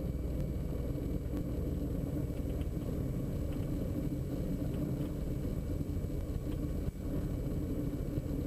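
Diamond DA42 NG twin's engines and propellers running at low power during the landing rollout, a steady low drone inside the cockpit, with a brief dip about seven seconds in.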